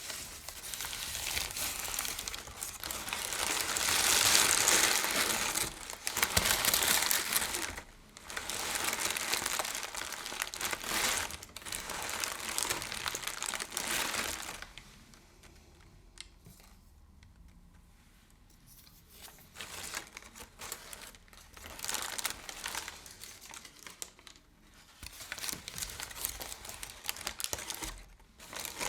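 Crinkly material crumpled and rustled close to the microphone in long bouts, with a quieter pause of a few seconds midway.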